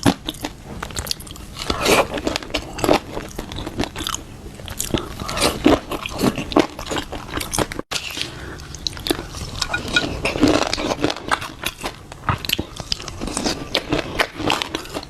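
Close-miked eating of shrimp topped with fish roe: biting and chewing with many short, irregular clicks and wet mouth sounds. There is a brief gap about eight seconds in.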